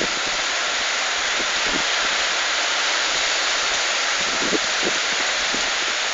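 Rain falling on a street, a dense steady hiss, with a few soft knocks of drops striking something near the microphone in the second half.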